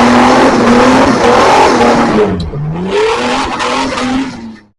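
An off-road 4x4's engine revving hard at high rpm over a heavy rushing wash. Its pitch sags about two seconds in and climbs back, and then the sound cuts off abruptly near the end.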